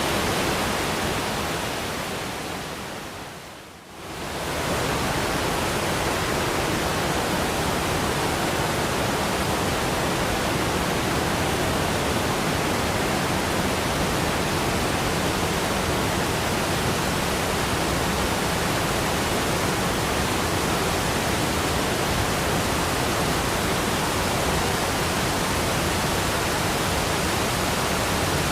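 Waterfall rushing with a steady, even roar of falling water. A few seconds in it fades away briefly and swells back up, then holds steady.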